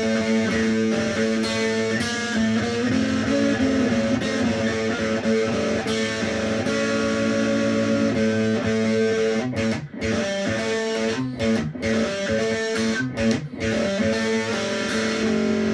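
Electric guitar playing a raga-style boogie: plucked melody notes over a steady droning note. In the second half the playing breaks into choppy phrases with several sudden short stops.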